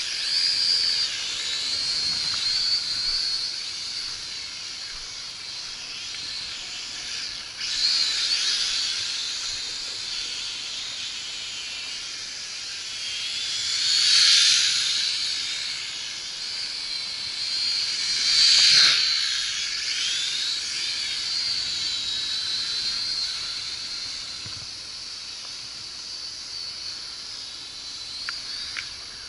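Syma X5C toy quadcopter's small brushed motors and propellers whining high, the pitch wavering up and down as the throttle changes. It grows louder three times as it comes close.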